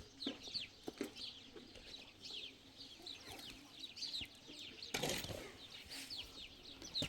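Birds chirping: many short, high chirps falling in pitch, one after another, with a brief burst of noise about five seconds in.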